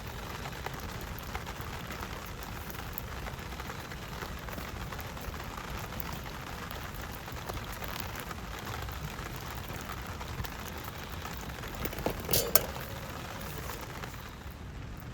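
Steady rain falling, an even hiss with scattered drop ticks. A short, louder knock or clatter comes about twelve seconds in.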